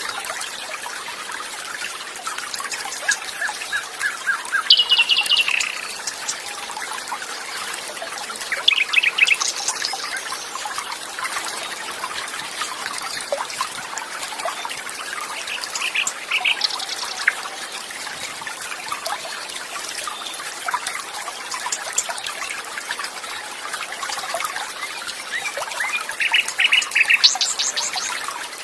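Water trickling and flowing steadily, with songbirds chirping in short, rapid trills a few times, the loudest near the end.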